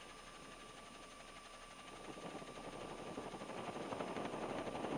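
Police helicopter noise, faint at first and growing steadily louder from about two seconds in.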